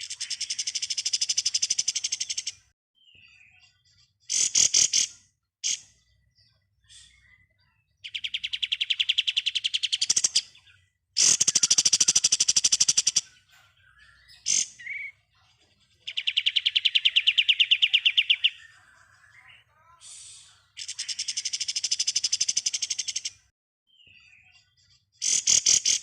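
Kapas tembak singing in fast rattling 'ngebren' bursts: long trills of rapidly repeated high notes, each lasting two to three seconds, with shorter bursts and single chirps between them.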